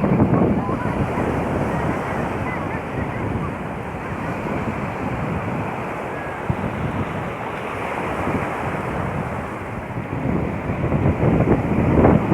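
Sea waves washing onto the shore, with wind buffeting the microphone. The surf swells louder near the end.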